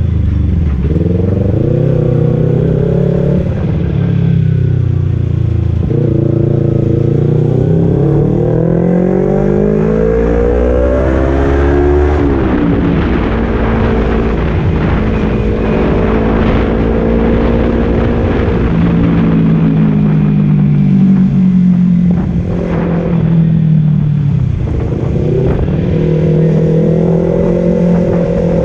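Kawasaki Z250 parallel-twin engine running through a Leovince Cobra aftermarket exhaust. The revs climb slowly for several seconds and drop sharply about twelve seconds in. They then hold steadier, with a dip and rise again near the end.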